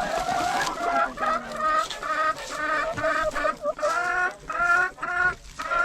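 Hens clucking in a quick run of short calls, about three a second.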